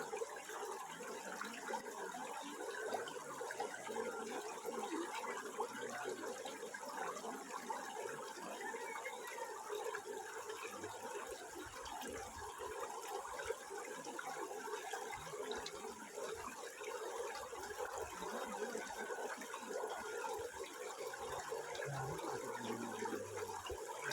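Water flowing and splashing steadily, an unbroken rushing sound that does not change.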